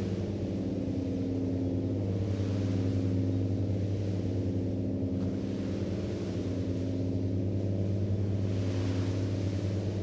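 Ship's diesel engine running underway: a steady low drone with a strong hum and a stack of overtones, and a faint hiss of water or wind swelling now and then.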